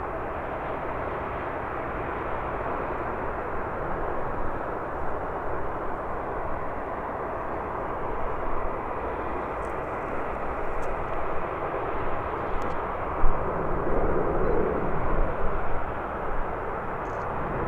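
Jet airliner arriving, its engines a steady rushing noise that gets somewhat louder a few seconds before the end.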